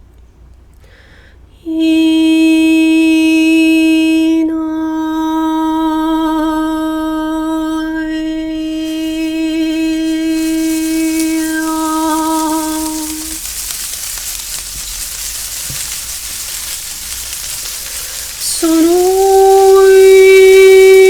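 A voice toning long sustained notes. The first note starts about two seconds in and is held for some twelve seconds, with its vowel shifting, then fades into a breathy hiss. A second note starts near the end with a quick upward slide in pitch, then holds steady.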